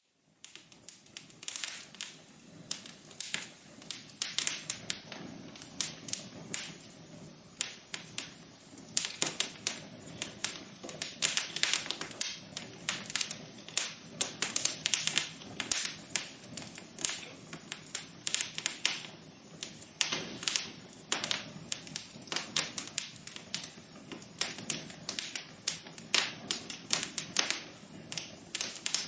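Wood fire crackling in a fireplace: irregular sharp snaps and pops, several a second, over a soft steady rush.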